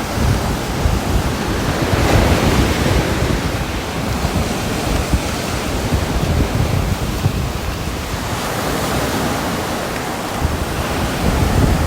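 Heavy rain: a dense, steady rush that swells and eases, with low rumbling underneath.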